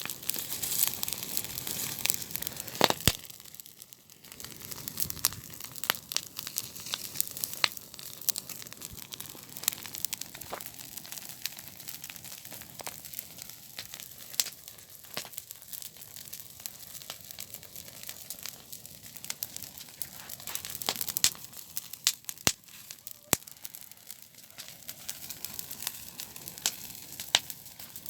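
Campfire burning and crackling, with irregular sharp pops.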